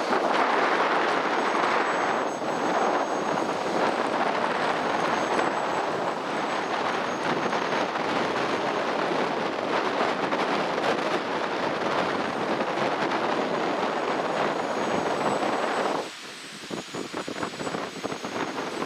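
Radio-controlled model airplane in flight, its motor and propeller making a steady drone, with a thin high whine above it. The drone drops off suddenly near the end.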